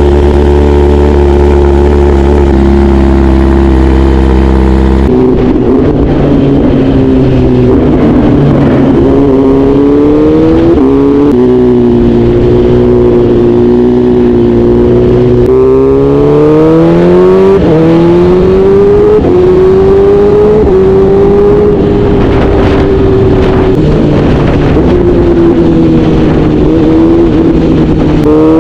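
BMW S1000RR inline-four engine running close up and being revved, its pitch climbing and falling back several times.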